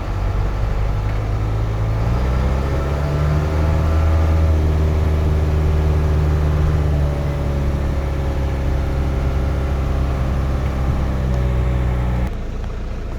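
2004 GMC box truck's engine pulling the truck in reverse: the revs climb about two seconds in, hold steady, then ease off, and the engine settles back down near the end.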